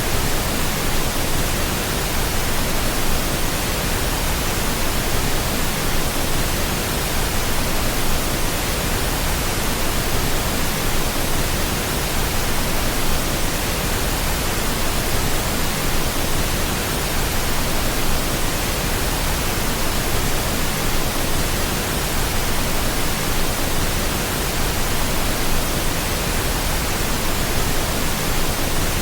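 Steady pink noise: an even, unbroken hiss spread across the whole range from deep rumble to high hiss, with no change in level.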